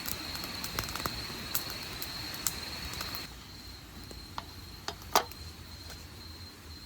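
Crickets chirping in a steady high continuous note, with scattered small clicks and taps, one of them louder about five seconds in.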